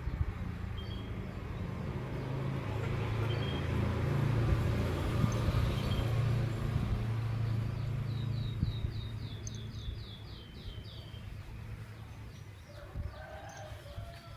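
A low rumble, like a passing motor vehicle, swells and fades over the first ten seconds. Then a small bird chirps a quick run of about a dozen high notes, with a few fainter calls near the end.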